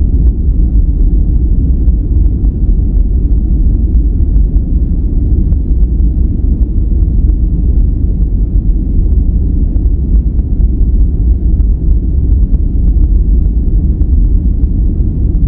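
Steady relaxation noise track, sold as white noise but deep and rumbling, with most of its energy in the low end and almost no high hiss.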